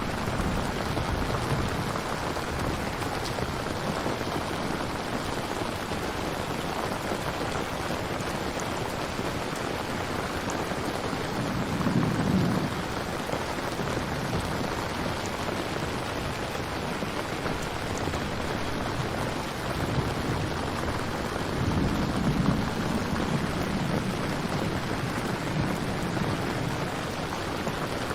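Steady heavy rainfall, with low rumbles of thunder swelling about twelve seconds in and again a few seconds past the twenty-second mark.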